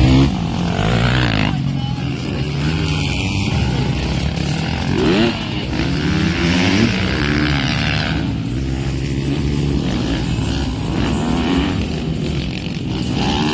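Motocross motorcycles racing, their engines revving up and down as they accelerate and shift.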